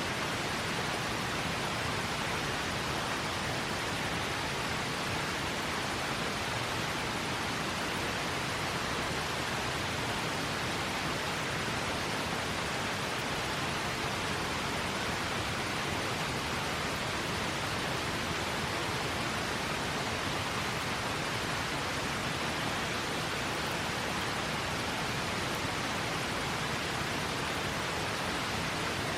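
A river flowing: a steady, even rush of water with no change.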